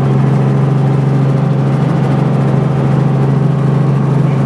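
Helicopter engine and rotor running steadily, a loud, even drone with a strong low hum.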